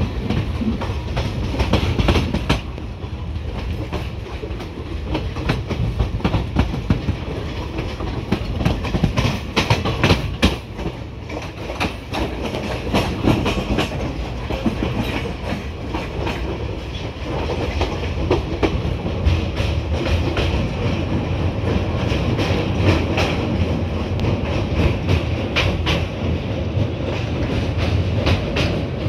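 Passenger train heard from an open coach door while running: steady rumble and wind, with the wheels clicking over rail joints. The low rumble grows heavier about two-thirds of the way through as the train rolls onto a steel truss bridge.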